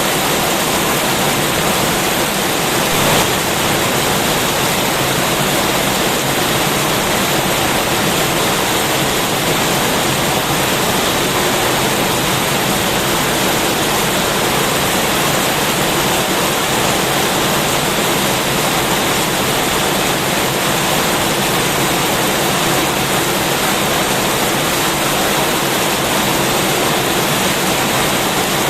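Heavy rain falling steadily: a dense, even downpour hiss with no letup.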